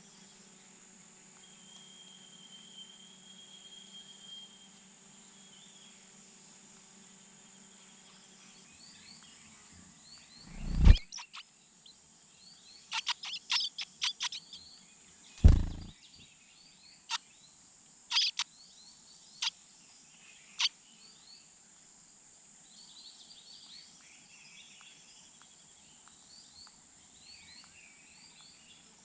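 Nestling bird chirping with short high calls at the nest during a feeding. There are two loud thumps about 11 and 15.5 seconds in, a quick burst of sharp chirps and clicks between them, and a few single sharp clicks after. A steady high insect-like whine runs underneath.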